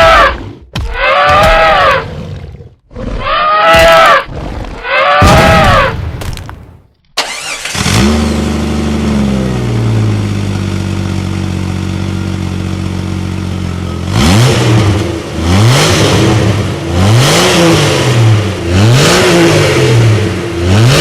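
Four loud calls rising and falling in pitch. Then an engine starts about seven seconds in, settles into a steady idle, and from about fourteen seconds revs up and down several times, likely a toy tractor's engine sound.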